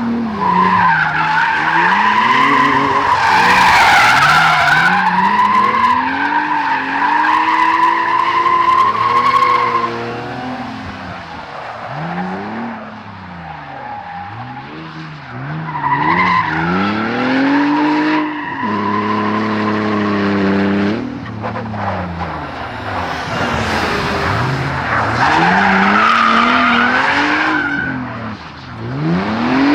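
BMW E30's M54B30 3.0-litre straight-six revving up and down again and again under hard driving, with long squeals from spinning tyres as the car drifts. The squeals come in three spells: from about a second in, through the middle, and near the end.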